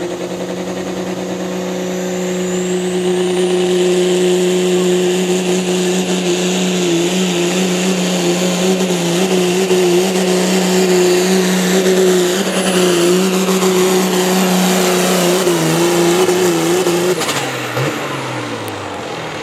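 Pulling vehicle's engine running flat out at a steady high pitch during a pull, with a high whine rising over the first few seconds. Near the end the engine is backed off and its pitch falls away.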